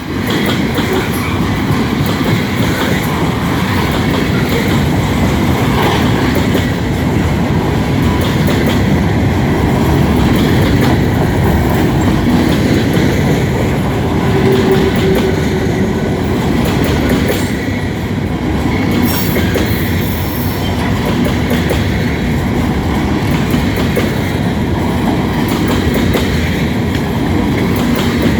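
Freight train cars rolling past at low speed, wheels clattering over the rail joints with a brief faint squeal about halfway through, as the train slows to stop.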